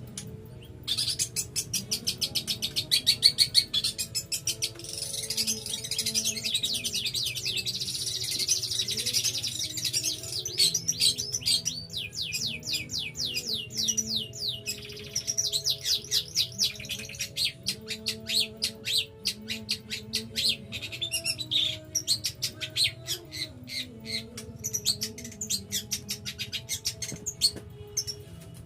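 Long-tailed shrike (cendet) singing at length: fast runs of rapid, repeated high chattering notes, broken by a short pause about a second in and a few brief gaps.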